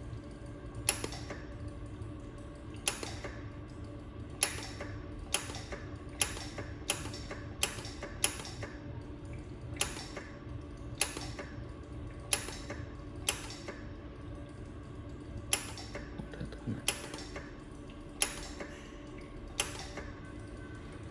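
Jewelry laser welder firing single pulses, a sharp snap with each shot about once a second at uneven intervals. Under it runs the steady hum of the machine's cooling system.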